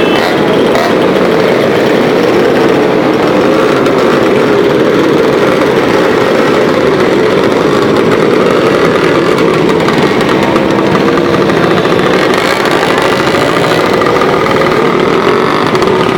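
Motorcycle engines running loudly and steadily, the engine note wavering up and down.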